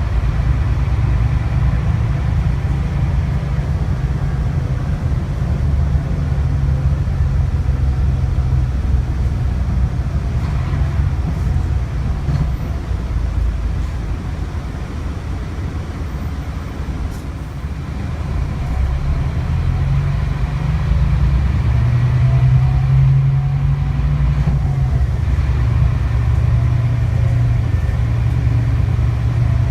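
Scania K360IB coach's engine running under way, a steady deep drone. It eases off a little past the middle and pulls harder again for the last third.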